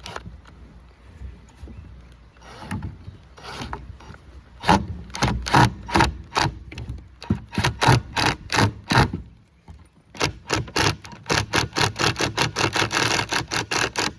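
Back-and-forth rasping strokes of a hand tool working wood. A few scattered strokes come first, then a steady run of about two to three strokes a second, a short pause, and a faster run near the end.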